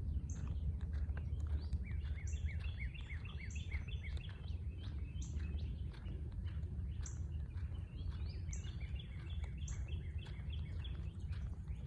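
Several birds singing and chirping together: a high note that comes back every second or two, and runs of quick falling chirps, over a steady low rumble.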